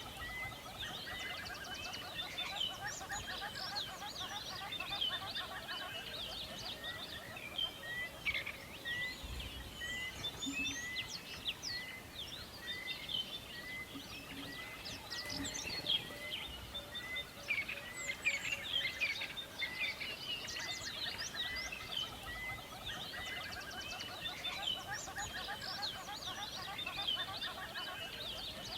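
Forest birdsong: many birds chirping and trilling together, with one bird repeating a short note about once a second through most of it.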